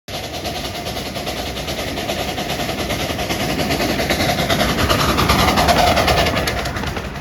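Steam train running, with a fast, even rhythm of noise that grows louder over the first six seconds.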